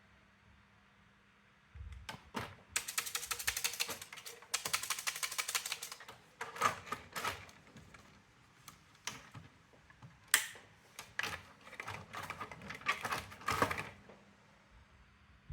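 Brother AX-425 electronic typewriter mechanism clicking. About two seconds in come two dense runs of rapid clicks, like the typewriter printing. Scattered single clicks and short clusters follow.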